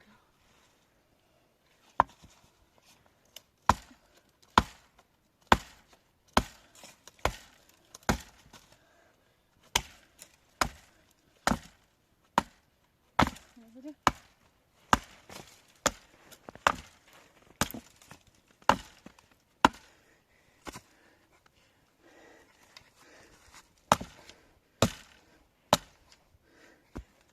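Repeated sharp chopping strikes into wood, about one or two a second, with a short pause before they resume near the end.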